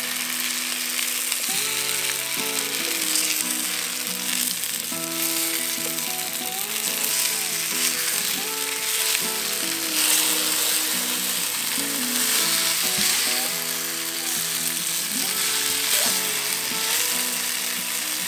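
Mielie-meal pap fingers sizzling and crackling steadily as they fry in canola oil in a frying pan, with background music underneath.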